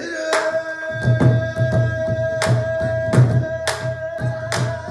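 A pansori singer holds one long sustained note while a buk barrel drum is struck in steady accompaniment, low thumps with sharp rim-like clicks, about two strokes a second.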